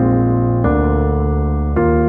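Background piano music: slow sustained chords, a new one struck about half a second in and another near the end.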